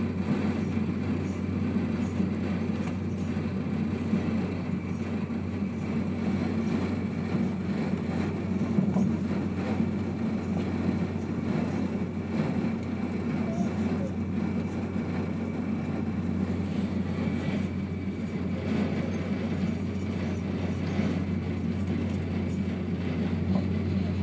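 Steady rumble and rush of a Eurostar high-speed train running at speed, heard from inside the passenger carriage, with a constant low hum under it.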